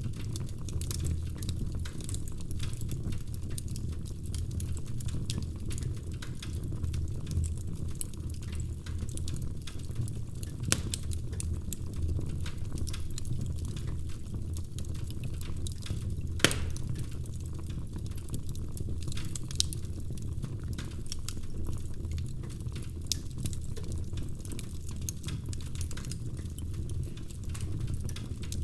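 Wood fire crackling in a fireplace: a steady low rumble of flames under constant small crackles, with a sharp louder pop about halfway through.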